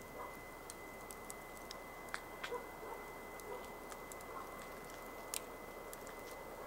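Wood campfire crackling: irregular sharp pops and ticks over a soft steady hiss, the loudest pops about two, two and a half and five and a half seconds in.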